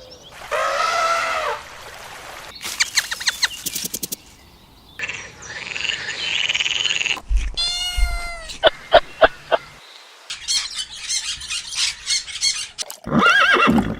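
A string of short, different animal calls cut one after another, with bursts of clicking and noisy stretches between them.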